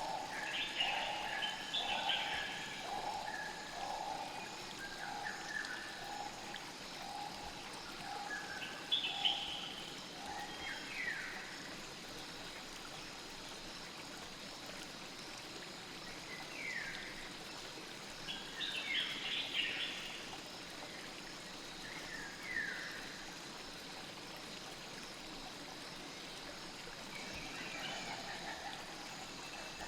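Night forest ambience: a steady wash of flowing stream water with birds calling on and off, including short falling chirps. A lower call repeats about twice a second and stops about ten seconds in.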